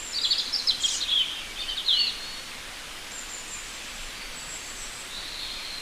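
Small birds chirping: a busy run of quick, high calls in the first two seconds, then sparser thin whistles, over a steady outdoor hiss.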